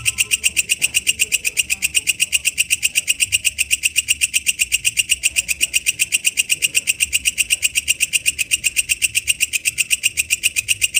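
Walang kecek katydid singing: a steady, rapid, high-pitched pulsing call of about seven chirps a second, kept up without a break.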